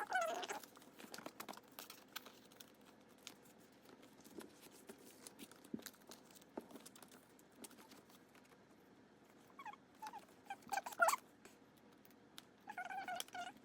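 A small pet animal giving a few short, high-pitched calls, once at the start and again twice near the end, over light clicking and rustling of plastic binder pages being handled.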